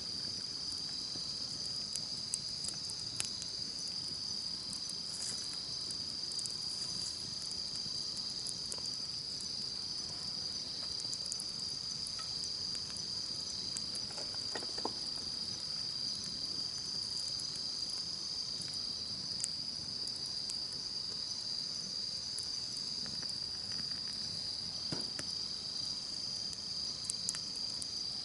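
A steady, high chorus of insects chirring, with now and then a small crackle or pop from a wood campfire.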